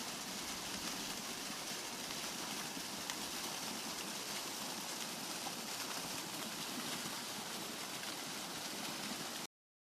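Steady rushing of the Aadhi Khola river's flowing water, an even, unbroken noise that cuts off abruptly near the end.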